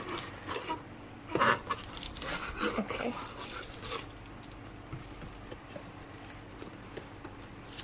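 Rustling and light knocks of light stick packaging being handled during unboxing, busiest in the first few seconds and then fading to quiet handling.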